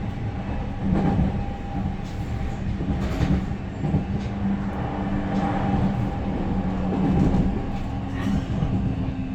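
Interior running noise of a JR Central 315 series electric train: a steady rumble of wheels on rail with a steady low hum and irregular knocks from the track.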